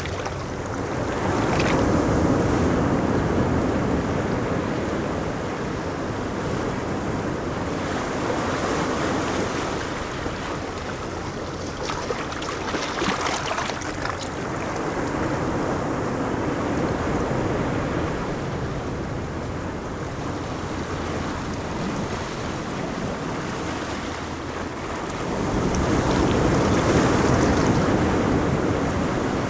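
Ocean waves breaking and washing up on a beach, the surf swelling and easing every several seconds, with some wind noise on the microphone.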